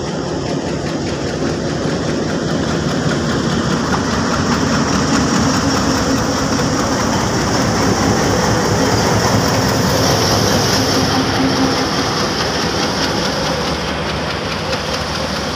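Pakistan Railways diesel locomotive passing close on the adjacent track, its engine growing louder as it draws level about halfway through, then easing as its passenger coaches roll past.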